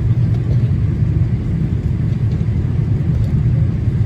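Steady low rumble of a Boeing 787-8 Dreamliner's cabin noise in flight during the approach descent: engine and airflow noise, even in level with no change.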